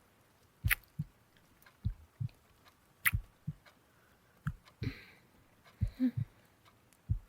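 Slow heartbeat, soft low lub-dub thumps in pairs about every second and a quarter, with a couple of quiet breaths.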